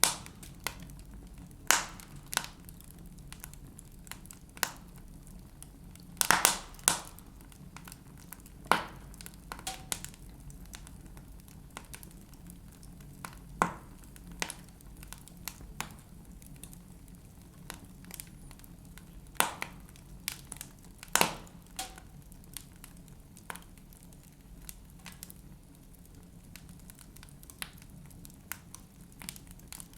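Wood fire in a fireplace crackling, with sharp pops at irregular intervals of a few seconds and a cluster of them around six to seven seconds in, over a faint steady low hum.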